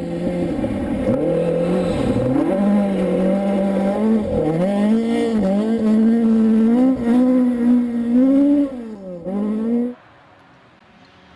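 Rally car engine running hard, its pitch dipping sharply and climbing again several times as the revs rise and fall. The sound cuts off abruptly near the end, leaving a much fainter engine.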